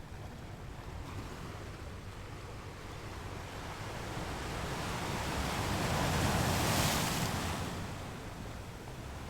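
Ocean surf: the rush of a breaking wave that builds, peaks about six to seven seconds in, then dies away.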